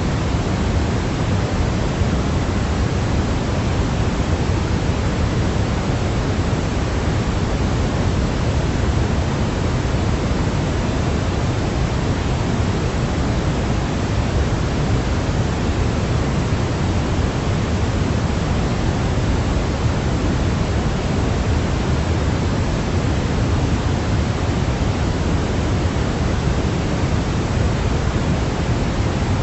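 Steady sleep noise: a constant, even hiss weighted toward the low end, like pink noise, with no changes or separate events.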